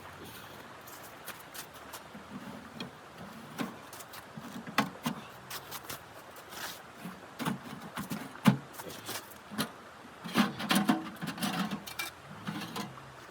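Irregular knocks, clicks and dull thuds, as of gear being handled, over a steady hiss, growing busier near the end.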